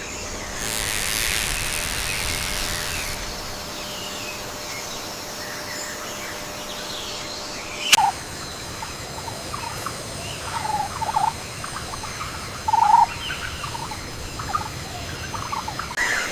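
Rainforest ambience: a steady background hiss with faint high steady tones, and short animal calls scattered through. There is a sharp click about halfway, and the loudest call comes a few seconds later.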